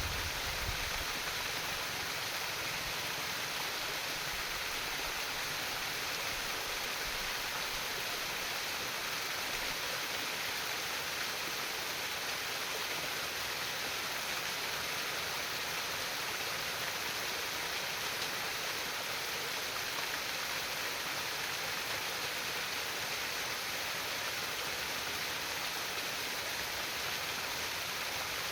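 Steady babbling of flowing stream water, an even hiss with no breaks or changes.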